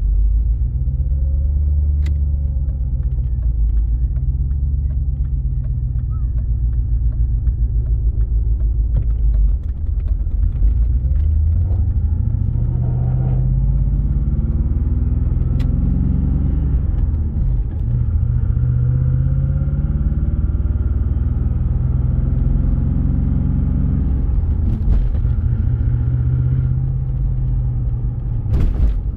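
Twin-turbo LS V8 in a BMW E36 driving, its engine note rising and falling several times with throttle and gear changes.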